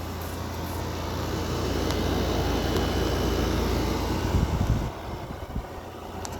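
Midea 5,000 BTU window air conditioner running on cool from outside, its compressor giving a steady low hum. A louder rushing noise builds over a few seconds and drops off suddenly near the end.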